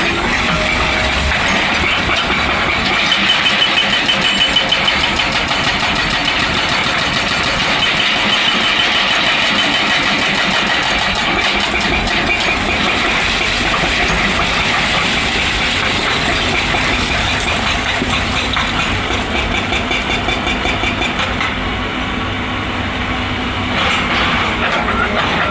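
Excavator's diesel engine running steadily with a fast, even pulsing throughout.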